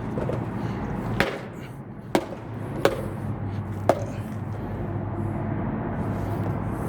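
Four sharp, short knocks about a second apart over a steady low background hum.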